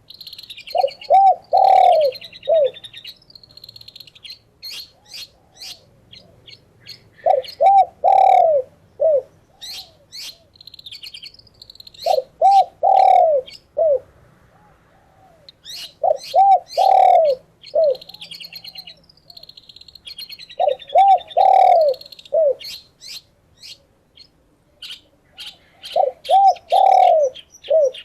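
Doves cooing in repeated phrases of several low notes, one about every four to five seconds, with a songbird's quick high chirps and scratchy chatter between the phrases.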